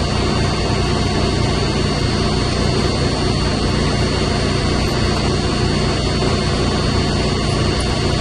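Steady, loud drone of running machinery in a chiller plant mechanical room, with a constant high whine on top.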